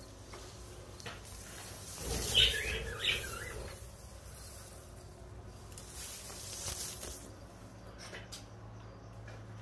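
Leaves rustling close to the phone, with a short burst of high chirping bird calls about two seconds in. A second stretch of rustling follows about six seconds in, over a steady low hum.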